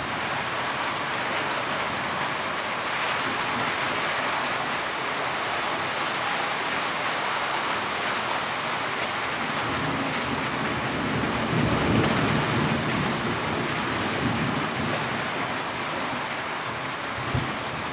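Heavy rain falling steadily, with a low rumble of thunder swelling about two-thirds of the way through.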